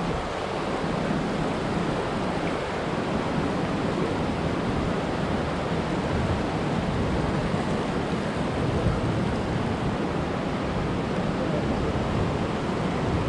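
Waterfall: a steady rush of falling, churning water.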